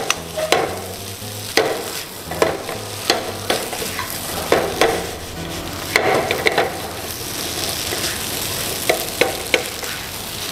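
Fried rice with egg and mixed vegetables sizzling in butter in a non-stick pan, stirred and pressed with a spatula that scrapes and taps against the pan at irregular intervals. The rice is still wet and is being fried until it dries.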